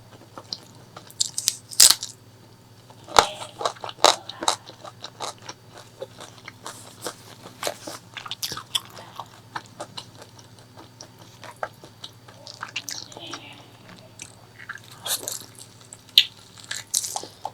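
Close-miked eating of pork leg curry with rice: irregular biting and chewing with sharp, crunchy bites, the loudest about two, three and four seconds in and another cluster near the end.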